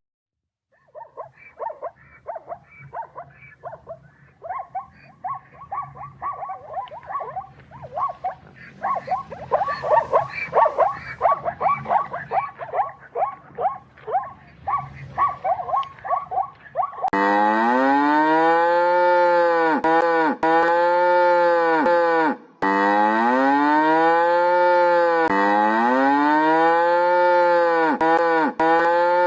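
A run of many short, quick animal calls for about the first half, then cow mooing takes over: long, loud moos that rise and fall in pitch, repeated one after another in an even, looped-sounding series.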